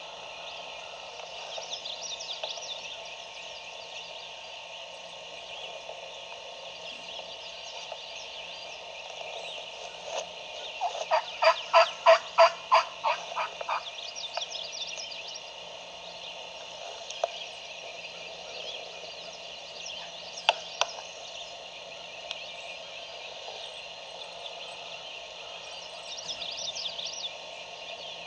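A run of about a dozen wild turkey yelps, about three a second, lasting a few seconds, over a steady background of birdsong.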